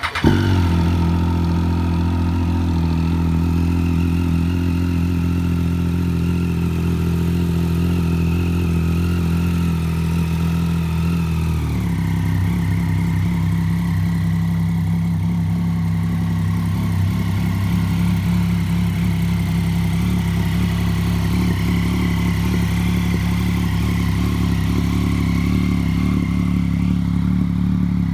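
A Triumph Street Triple 675 three-cylinder, four-stroke engine idling through a high-level Arrow aftermarket exhaust, just after being started, with a brief flare at the start. It holds a steady, higher idle, then about twelve seconds in the idle drops to a lower steady note.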